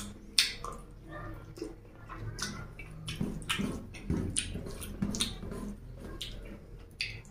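Close, wet chewing and lip-smacking of a mouthful of fatty mutton curry and rice, in short irregular smacks, with the squish of fingers mixing rice into the curry on a steel plate.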